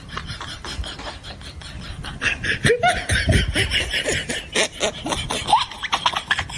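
Close-miked eating sounds: a man chewing roast chicken with rapid, wet smacking and clicking of the mouth. The sound gets louder about two seconds in, and a few short squeaky mouth sounds come through the middle.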